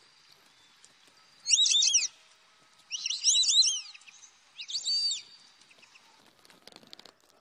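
A songbird singing three short phrases of quick, high, arching notes, about a second apart, with a faint rustle near the end.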